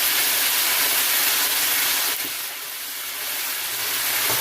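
Ginger-garlic paste frying in hot oil in a pot, a steady sizzling hiss that dips quieter for about a second just after the midpoint before building back up.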